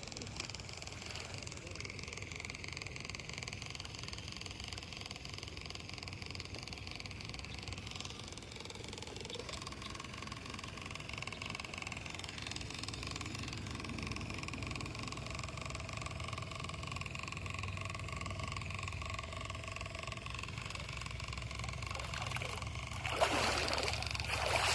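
Small RC boat's electric motor whining faintly and steadily over water splashing and trickling. A loud rushing gust comes near the end.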